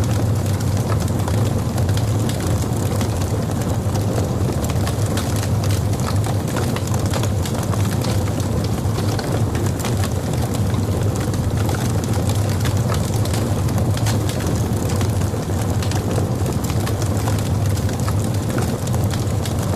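Wood logs burning in a fireplace: a steady low rumble of the flames with frequent sharp crackles and pops throughout.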